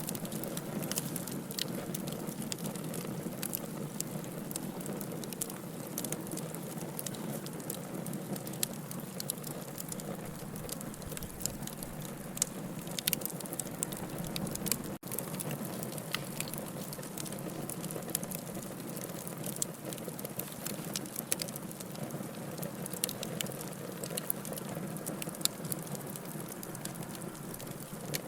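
Campfire burning wood, crackling steadily with frequent sharp pops. The sound cuts out for an instant about halfway through.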